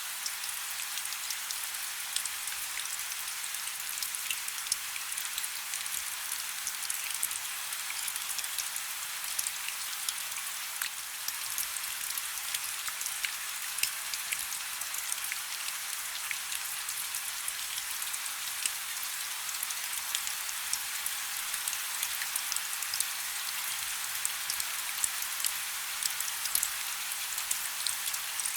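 Steady rainfall, a dense hiss with many individual drops pattering and ticking on a surface.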